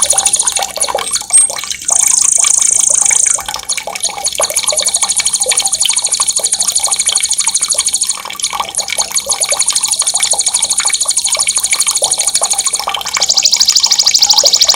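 Songbird masteran song: a string of long, very fast, high-pitched rolling trills ('ngerol'), each held for several seconds, the last one loudest. Running water in the background.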